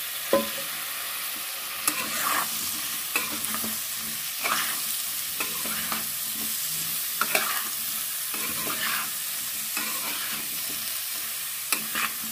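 Radish pieces sizzling in hot spiced oil left on a switched-off burner, while a metal spatula stirs them, scraping and knocking against the pan at irregular moments over a steady hiss.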